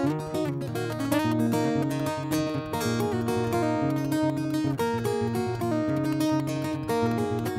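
Acoustic guitar being played, a steady run of strummed and picked notes.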